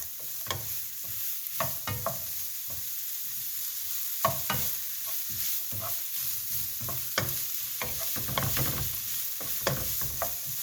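Onions, spring onions and peppers sizzling and frying in a skillet while they are stirred, with a utensil knocking and scraping against the pan at irregular moments.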